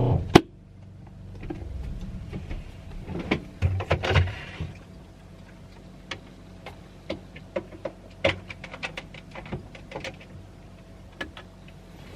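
A sharp click just after the start, then scattered light clicks and knocks of small objects being handled, over a faint steady hum.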